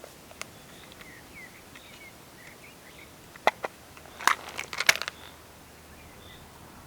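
Close handling noises: a few sharp clicks, then a brief cluster of crackling, crinkling clicks about four to five seconds in. Faint bird chirps sound in between.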